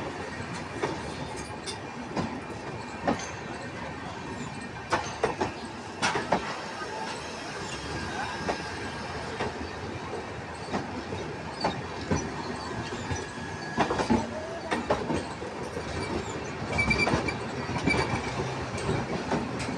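Train running past on the track: a steady rumble of the wagons with irregular clanks and clicks of wheels over rail joints, and a faint thin wheel squeal in the middle.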